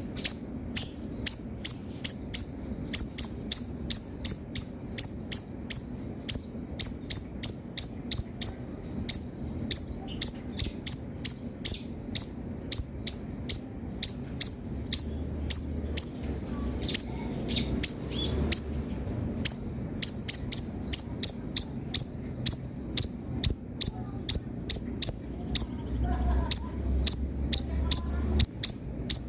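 Sunbird (kolibri ninja) calling: a fast, continuous run of short, sharp, high chirps, about two or three a second, with a few brief pauses.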